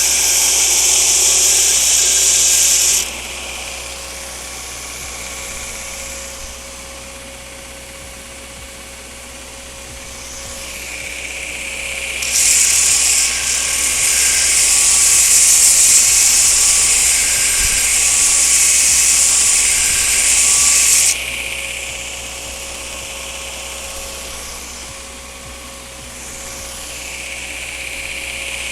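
Belt grinder running, with two long spells of steel being ground against the belt: a loud high hiss for the first three seconds and again from about twelve to twenty-one seconds, with the quieter running of the machine in between.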